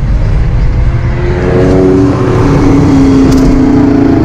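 A car engine revving hard over a heavy low rumble, its pitch climbing from about a second and a half in and then held high.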